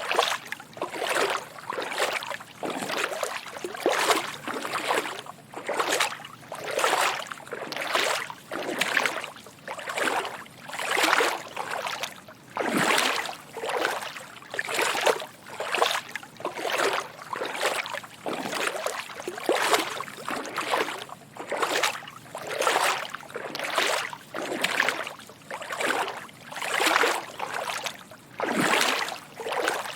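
Footsteps wading through shallow water: a soft slosh and splash with each step, about one a second in an even walking rhythm.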